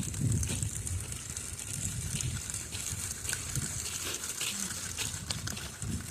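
Wind buffeting the microphone in gusts, a low rumble that swells and fades, with irregular light crunching and crackling of footsteps on icy ground.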